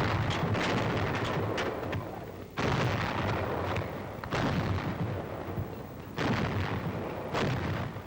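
A battery of 90 mm antiaircraft guns firing: five heavy reports roughly every one and a half to two seconds, each followed by a long rumbling decay.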